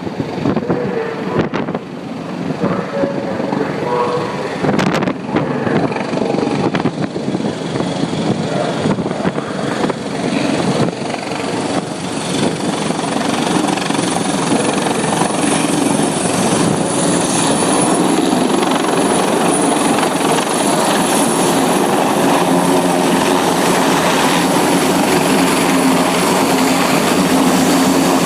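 Helicopter rotor and engine noise, a dense steady drone that grows gradually louder, with a low hum coming through more clearly in the second half.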